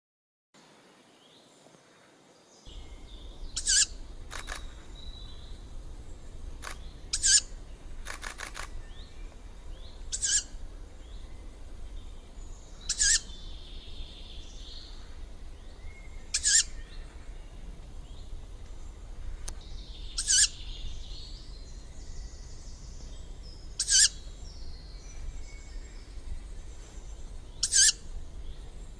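Juvenile tawny owl giving its begging call: a short, high, hoarse shriek repeated about every three to four seconds, eight times in all.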